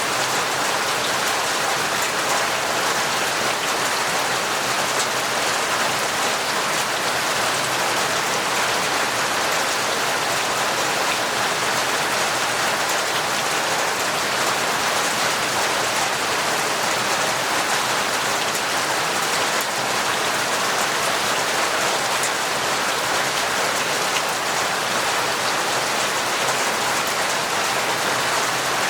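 Heavy, torrential rain falling steadily: a dense, even hiss with fine patter of drops.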